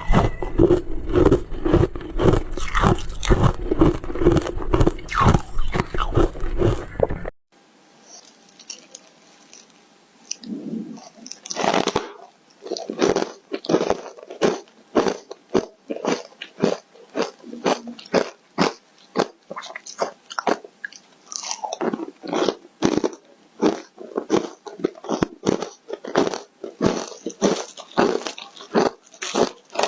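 Foam ice being bitten and chewed close to the microphone: rapid, crunchy crackling strokes, several a second. About seven seconds in, the sound cuts off abruptly. After a short lull the crunching returns crisper and with less bass.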